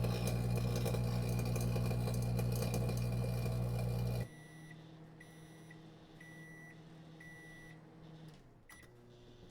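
Broken electronic device sound effect: a loud electrical buzzing hum with crackling static, which cuts off suddenly about four seconds in. A faint hum follows, with a series of high electronic beeps of uneven length, about five of them.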